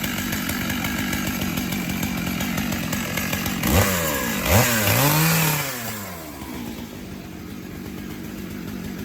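Chainsaw running at idle, then revved up twice in quick succession about four seconds in, its pitch sweeping up, before dropping back to a quieter idle.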